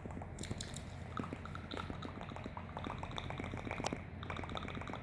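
Close-miked wet mouth sounds: quick tongue clicks and lip smacks, many small wet pops a second.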